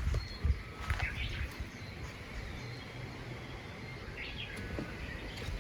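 Wild birds chirping a few short calls, about a second in and again about four seconds in, over a steady low rumble of wind on the microphone.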